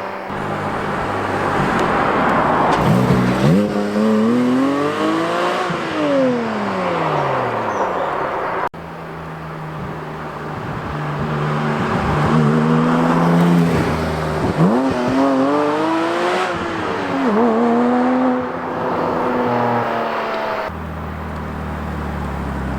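Porsche 718 GT4's 4.0-litre flat-six exhaust under hard acceleration. Its pitch climbs, drops at each gear change and climbs again, with a few runs cut together.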